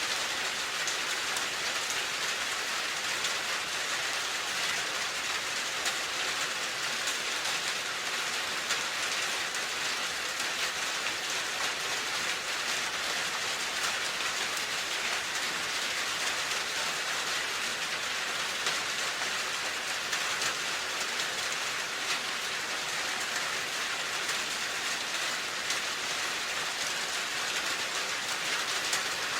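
Steady, even rain falling, a continuous hiss with many fine drop ticks.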